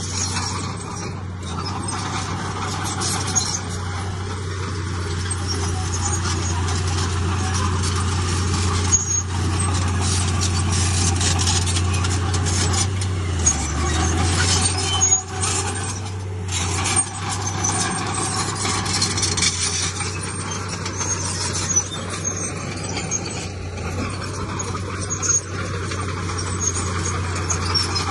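Heavy diesel earthmoving machinery running, a steady low engine drone over a wash of mechanical noise, with a few sharp knocks and the engine briefly pulling down about halfway through as it takes load.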